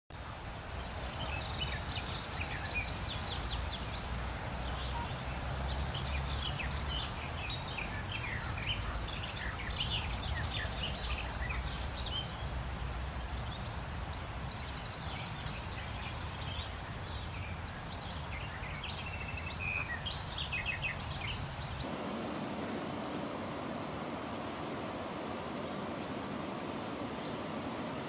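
Wild birds chirping and trilling in many short, high calls over a steady low rumble. About 22 seconds in, the birdsong and rumble stop abruptly and a steady hiss takes over.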